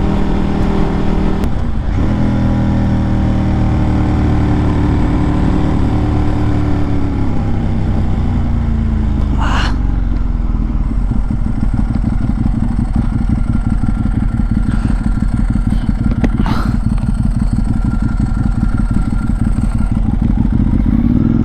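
Ducati 1098 superbike's L-twin engine heard while riding. After a brief break about two seconds in, its note falls steadily for several seconds as the bike slows, then settles into a lower, steady run.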